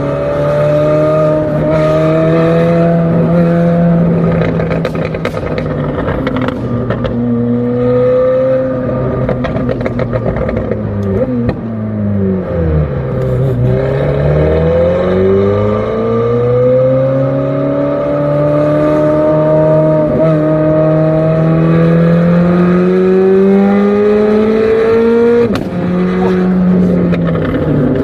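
McLaren 765LT's twin-turbo V8 running under way on the exhaust, holding steady revs, falling in pitch about twelve seconds in and then climbing again, and dropping abruptly near the end as it shifts up. A run of sharp crackles a few seconds in.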